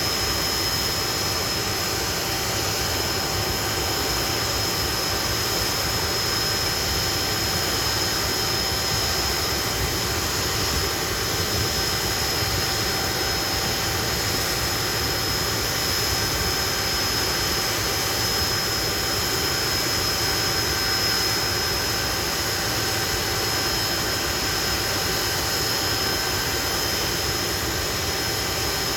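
Hawker Siddeley Nimrod's Rolls-Royce Spey turbofan engines running steadily, a dense jet rush with a steady high whine over it.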